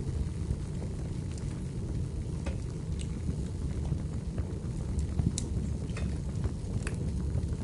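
Wood fire crackling in a fireplace: a steady low rumble of flames with scattered sharp pops and crackles from the burning logs, about half a dozen at irregular moments.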